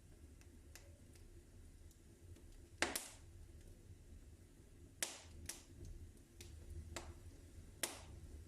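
Wood fire in a fireplace crackling, with a handful of sharp pops, the loudest about three, five and eight seconds in, over a faint low rumble.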